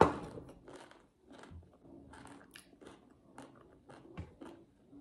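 A sharp knock as a plastic bowl with a spoon in it is set down close to the microphone, then close-miked chewing with small wet mouth clicks and smacks.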